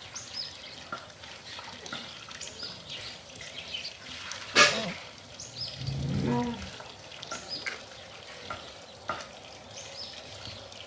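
Farmyard ambience with many short high chirps over a noisy background. A sharp knock about four and a half seconds in is the loudest sound, and a brief low cow moo follows about six seconds in.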